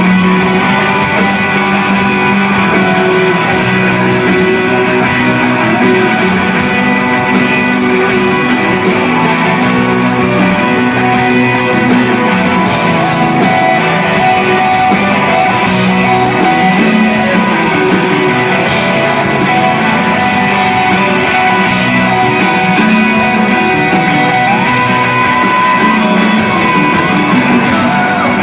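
A live rock band playing loudly, with guitars to the fore.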